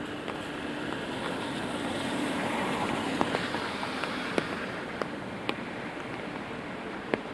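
Rain on a city street at night: steady hiss of wet traffic, with a car passing on the wet road that swells about two to four seconds in. Scattered heavy drops tick sharply on an umbrella overhead.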